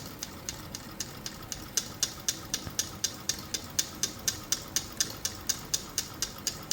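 Homemade aluminum-can Stirling engine running, its crankshaft and connecting rod mechanism making a steady ticking at about four clicks a second.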